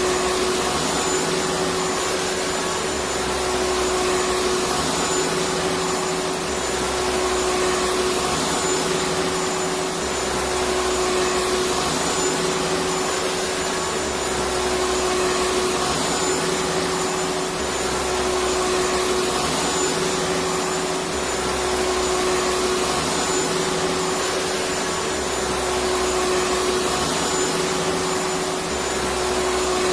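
Electric vacuum cleaner running continuously: a steady rushing whoosh of air with a constant motor hum and a faint high whine, the low end swelling gently about every three and a half seconds.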